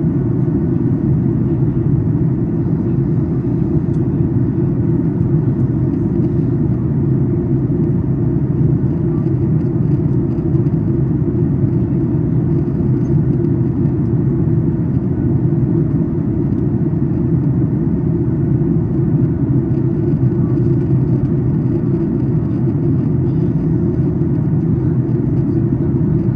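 Steady, even cabin rumble inside a Boeing 737 MAX 8 airliner in flight during descent: engine and airflow noise, deep and unchanging.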